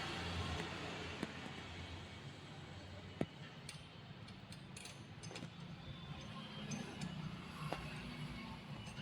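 Light clicks and clinks of small plug parts and wires being handled, a few scattered ticks over a low steady background hum.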